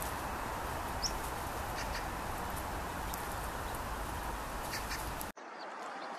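Vinous-throated parrotbills giving a few short, soft high calls over a steady outdoor hiss. A brief sharp chirp about a second in is the loudest. The background noise drops suddenly near the end.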